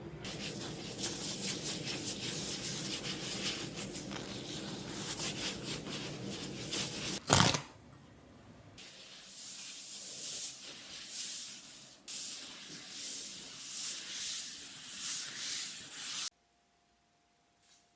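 Repeated rubbing strokes, swelling about once a second, with one loud knock about seven seconds in; the sound cuts off abruptly near the end.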